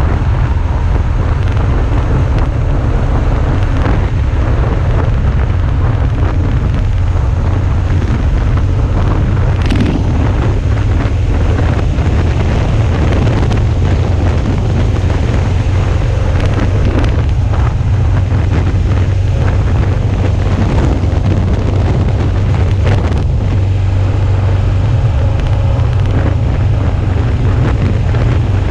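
Wind buffeting an action camera's microphone on a moving motorcycle, with the Suzuki V-Strom 650's V-twin engine running steadily underneath. The sound is loud and even throughout, heaviest in the low rumble.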